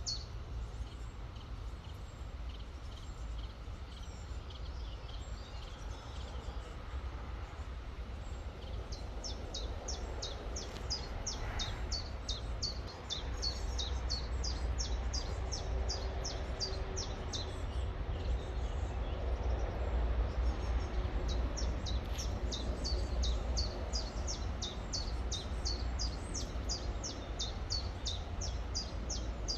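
A bird calling in a steady run of short, high, downward chirps, about three a second, over the steady rush of a river and a low rumble.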